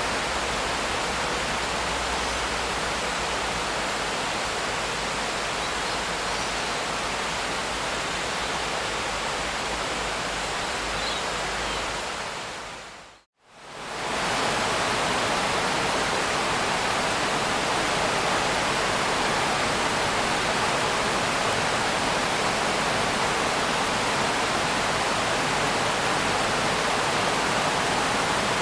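Steady rain, an even dense hiss. About thirteen seconds in it fades out to a moment of silence and comes straight back in.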